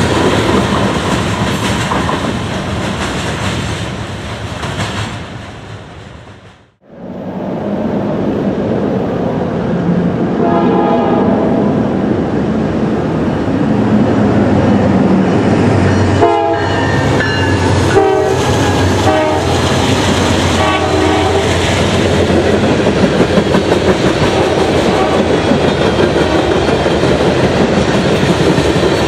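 Freight cars rolling past with wheels clacking over the rail joints; the sound fades out about seven seconds in. Then a diesel locomotive horn sounds several blasts, long and short, over the rumble and clatter of another freight train's cars passing close by.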